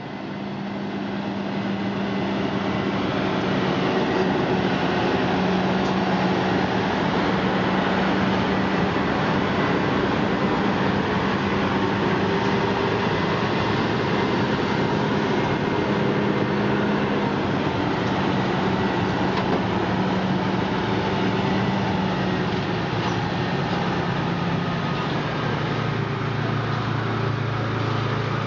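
Heavy road transporter hauling a Shinkansen car, its diesel engine running steadily under a broad rumble. The sound fades in over the first few seconds, and the drone drops lower in pitch about 25 seconds in.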